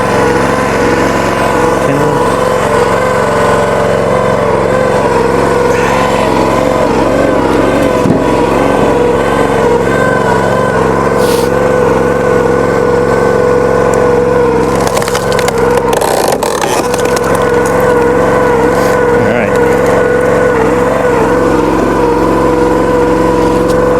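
Log splitter's gas engine running steadily at constant speed, with a few sharp knocks around the middle.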